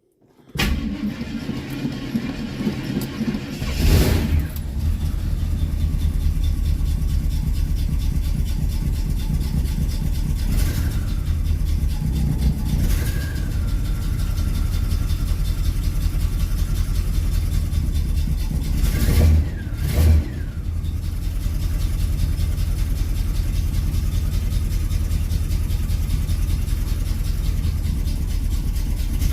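1968 Oldsmobile 442's V8 cold-started after sitting for months: it is cranked, catches about four seconds in, then runs steadily, with a brief rev about ten seconds in and two quick revs around twenty seconds.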